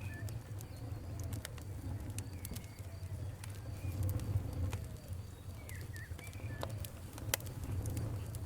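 Wood fire crackling, with scattered sharp pops over a low steady rumble. Birds call faintly behind it.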